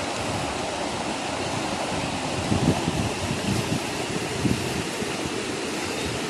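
Steady rush of flowing water, with a few short low bumps in the middle.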